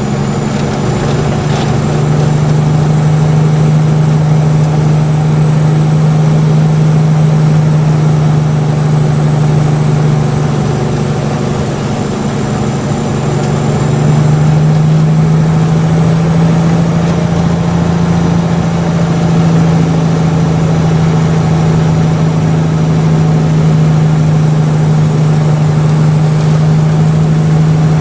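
Mack truck's diesel engine running steadily under load with a deep hum, its pitch and level rising slightly about halfway through.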